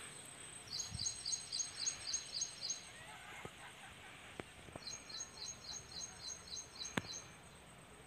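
A small bird calling twice: each time a rapid run of high, sharp repeated notes, about four a second for some two seconds, over faint outdoor hiss. A single sharp click near the end.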